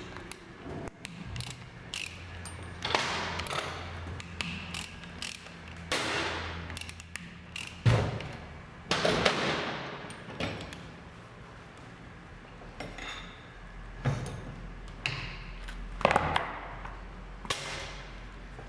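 Metal clinks, knocks and short rasping scrapes of hand tools and steel parts as a Bosch EDC diesel injection pump is taken apart.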